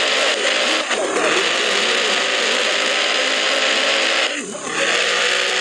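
Loud, distorted playback blaring from an advertising sound car's loudspeaker system, voice-like, with a brief dip about four and a half seconds in.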